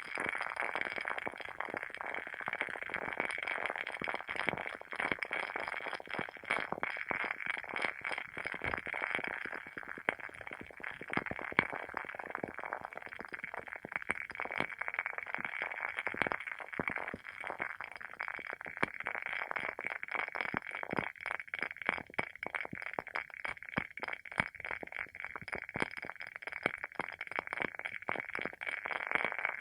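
WoodWick candle's wooden wick burning with a dense, irregular run of small crackles and pops, like a tiny bonfire, over a steady hiss. One pop about eleven seconds in stands out louder.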